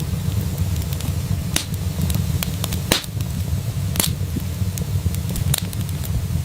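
Wood fire in a fireplace crackling, with a steady low rumble of flames and scattered sharp pops, the loudest two about three and four seconds in.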